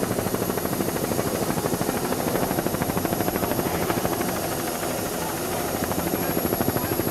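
Helicopter rotor chopping steadily in a fast, even pulse over its engine noise, as heard from a camera helicopter above the race boats.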